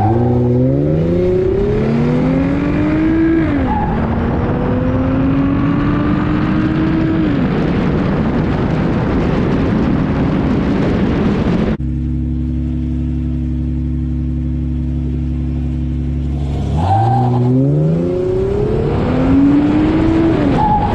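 Car engine accelerating hard through the gears, its note climbing and dropping back at each upshift, twice: a pull from the start with shifts at about three and a half and seven and a half seconds, then a sudden cut to a steady engine note, and a second pull about seventeen seconds in with another shift near the end.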